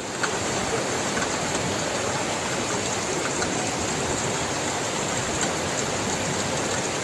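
Steady rush of water, with a few faint clicks.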